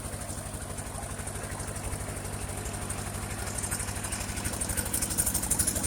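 1958 Ford 851 tractor's four-cylinder engine running steadily with an even pulsing beat, growing louder over the last couple of seconds.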